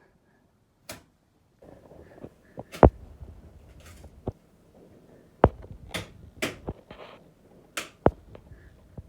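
Shoji screen paper being punctured and torn by cats clawing at it: a string of sharp pops and short rips, with paper rustling between them.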